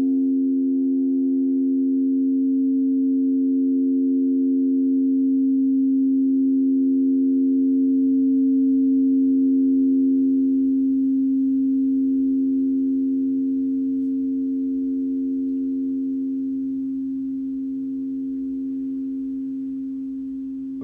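A singing bowl's long ringing tone, several pitches sounding together, holding steady and then slowly fading over the second half.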